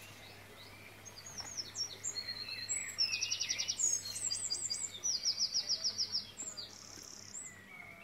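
Songbirds singing: high chirps and short falling whistles, with two quick, rapid trills in the middle.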